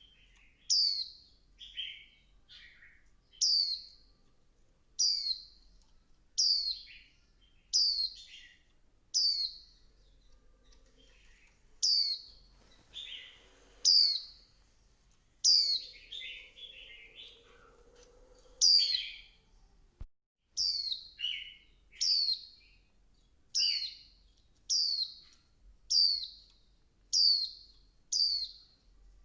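Female white-eye (vành khuyên) calling: short, sharp, high notes that sweep downward, repeated about once a second, with softer twittering mixed in around the middle.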